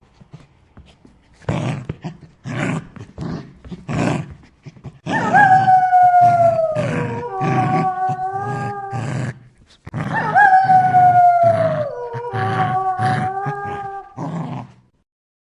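Canines howling, several voices at once: two long howls that slide down in pitch, one about five seconds in and one about ten seconds in, with other howls overlapping them. They follow a handful of short, sharp barks.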